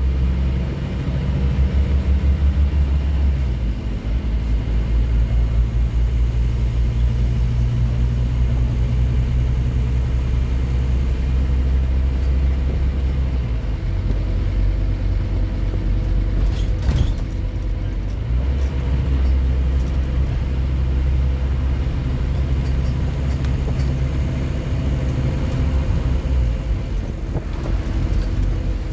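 Scania N230UD OmniCity double-decker bus engine, a five-cylinder diesel, running under load. It eases off and pulls hard again several times, with a faint high whine as it pulls. There is one sharp click about 17 seconds in.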